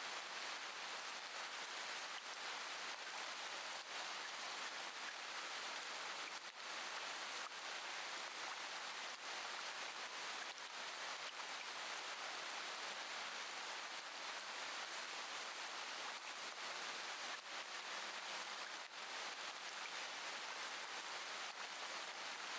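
Steady rain: an even hiss with scattered drops ticking through it.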